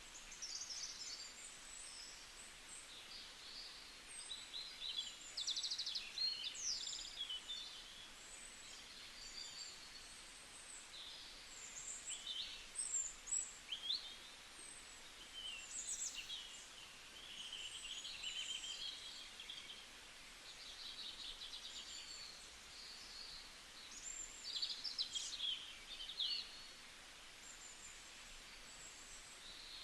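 Several birds chirping and calling, overlapping short high notes, trills and quick whistled glides, over a faint steady hiss of background noise.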